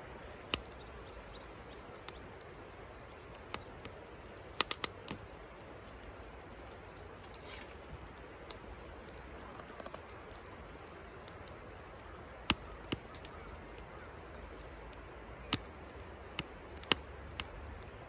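Firewood crackling in a fire pit as the fire catches: sharp, irregular pops, a quick run of three or four about five seconds in and several more near the end, over a steady faint hiss.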